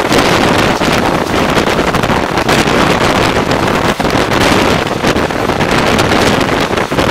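Passenger train in motion: a loud, steady rush of running noise, with wind buffeting the microphone.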